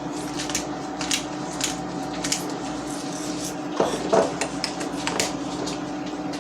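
Peppercorn grinder being twisted: a run of short, irregular crunching clicks, with a few louder clinks against the bowl about four seconds in. A steady low hum runs underneath.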